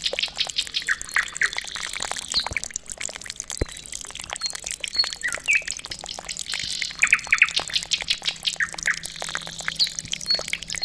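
Small birds chirping repeatedly in quick clusters, over many sharp clicks and a faint steady low hum.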